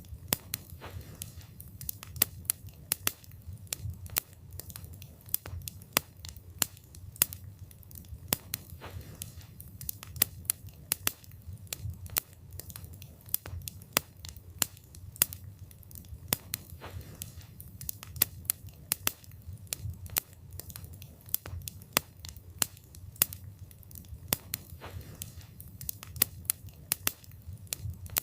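Wood fire burning, the logs crackling and popping in sharp irregular snaps several times a second over a low steady rumble of the flames.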